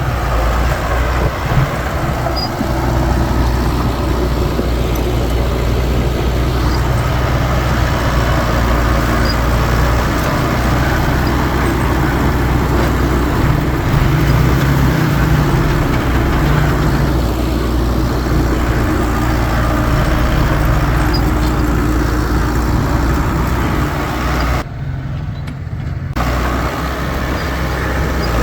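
Heavy earthmoving machinery's diesel engine running steadily with a deep, constant hum, the higher sounds dropping out briefly near the end.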